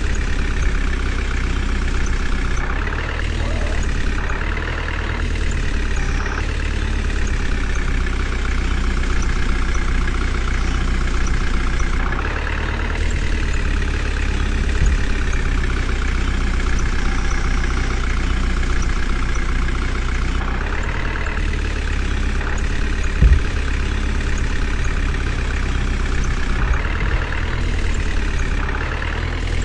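Heavy diesel engine of a tractor or backhoe loader running steadily, its pitch shifting a little a few times. A single brief knock about three-quarters of the way in.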